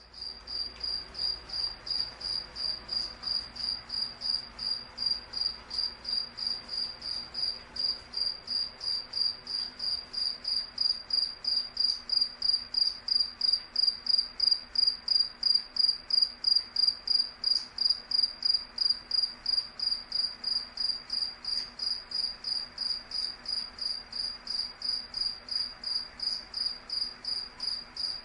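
Cricket chirping: a high, even train of chirps at about three a second that goes on without a break.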